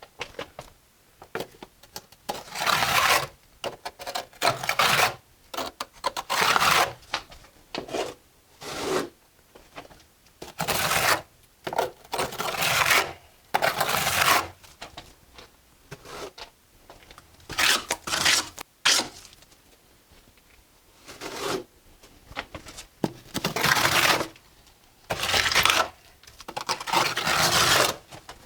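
Mason's trowel scraping and working mortar against brick, in a run of irregular strokes about a second long, with short pauses between them.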